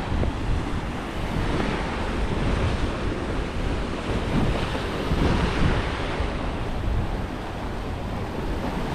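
Ocean surf washing in and out, with wind buffeting the microphone in low rumbles.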